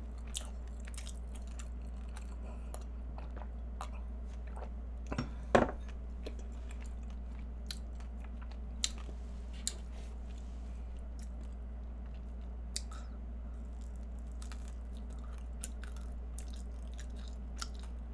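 A person eating egg tarts: quiet chewing and small mouth clicks over a steady low hum, with two louder knocks about five seconds in.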